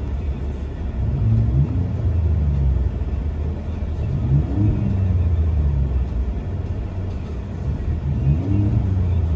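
Ford 3.5L EcoBoost V6 with a Borla Pro XS muffler, dual exhaust, heard from inside the truck's cab: a deep low drone, with the engine revving up and easing back about three times.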